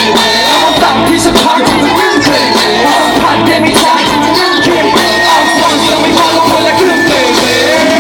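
Loud live band music, with voices shouting and singing over it.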